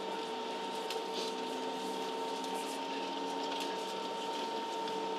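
Steady cabin noise of a Ryanair Boeing 737 on the ground: a constant hum with a steady whine from the jet's engines and air systems, with a few faint clicks.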